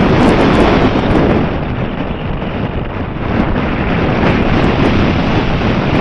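Strong wind buffeting the microphone: a loud, dense rushing rumble that eases a little about two seconds in and builds again.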